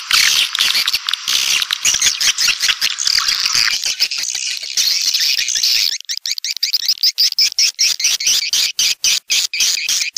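Swiftlet calls from a lure recording: dense, high twittering chatter that thins about six seconds in to an even series of sharp chirps, about four a second. Such calls are played to draw wild swiftlets into a nesting house.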